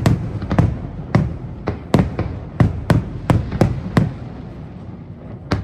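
Fireworks bursting overhead: an irregular run of sharp bangs, about two or three a second, with low rumbling echoes between them, thinning out near the end.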